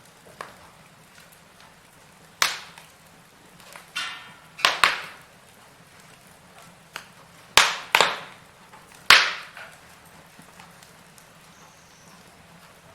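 Firewood burning in a fireplace, crackling with a handful of sharp, loud pops at irregular intervals over a faint steady hiss.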